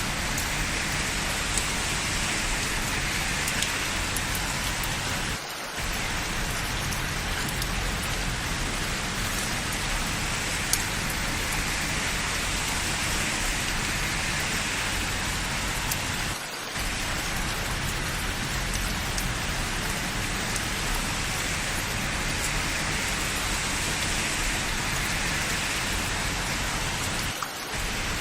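Steady rain falling, an even hiss with scattered individual drops ticking. The sound dips briefly three times, about every eleven seconds.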